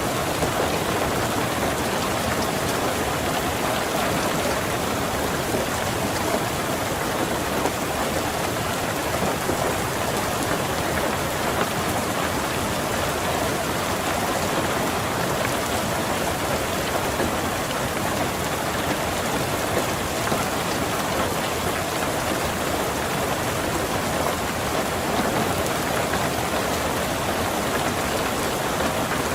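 Steady rain falling on a car, an even hiss that holds without a break.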